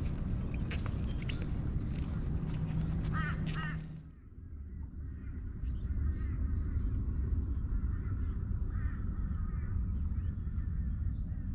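Birds calling over a steady low background hum. An abrupt cut about four seconds in leads to fainter, scattered calls over the same kind of low steady noise.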